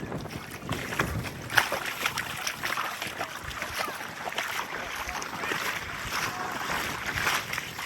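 Small waves breaking and washing up a sandy shore, a steady fizzing wash with crackling froth and one sharper splash about a second and a half in, with some wind on the microphone.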